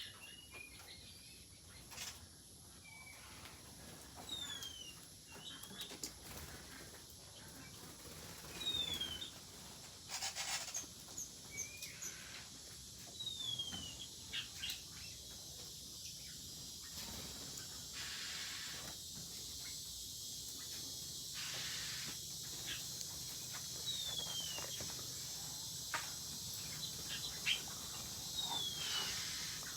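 Mixed small birds in an aviary chirping, with short falling high calls, often in pairs, recurring every few seconds.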